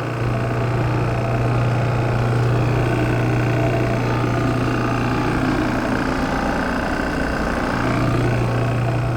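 Vehicle engine running steadily with a low hum that drops away for a couple of seconds in the second half, then returns.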